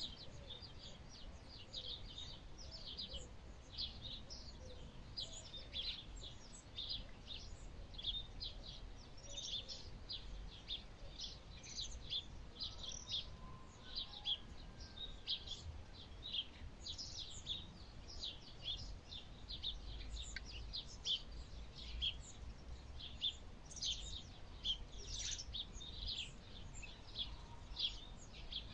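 Small birds chirping: a steady run of short, high chirps, several a second, over a faint low rumble.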